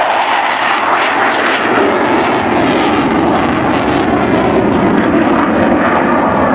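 Loud, steady engine noise of an airplane flying past, its pitch settling lower about two seconds in.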